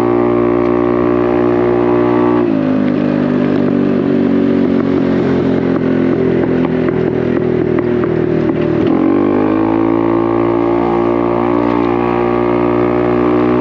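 Honda Navi's small single-cylinder engine running through a Vance & Hines exhaust, with a steady note. About two and a half seconds in the note turns rougher and a little lower. About nine seconds in it climbs back up and holds steady again.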